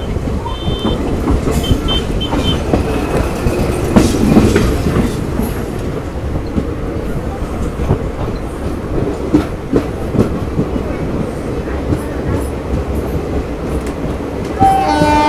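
DEMU (diesel multiple-unit) train running on the track, its wheels clattering over the rails in a steady rumble. Near the end a horn sounds, a chord of several steady tones.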